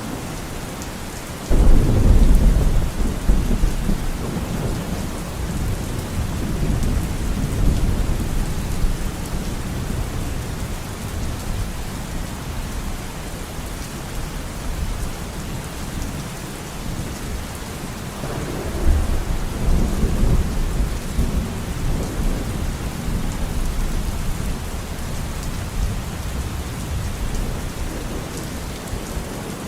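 Steady heavy rain with two rolls of thunder. The first begins suddenly about a second and a half in and rumbles on for several seconds; the second builds about eighteen seconds in and slowly dies away.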